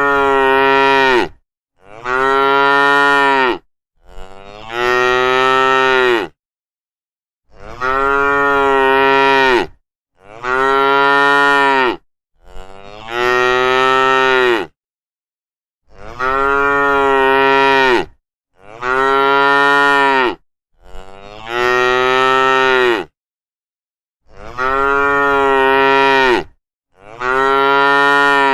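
Cows mooing: a series of long, steady moos of about two seconds each, one every two to three seconds, with silence between calls.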